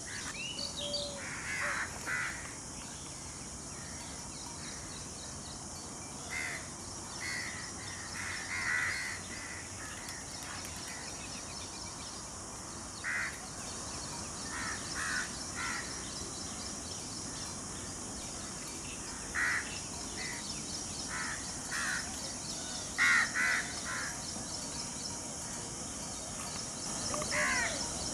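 Birds calling in short harsh notes, singly or in quick twos and threes, every second or two, over a steady high hiss.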